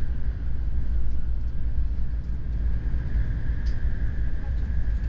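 Steady running noise inside a moving N700S Shinkansen car: a low rumble of wheels on the track with a faint high tone over it, a little stronger from about three seconds in.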